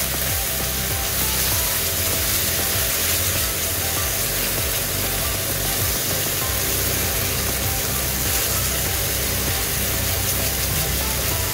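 Background music over the sizzle of a thick masala paste frying in hot oil in a pan as it is stirred.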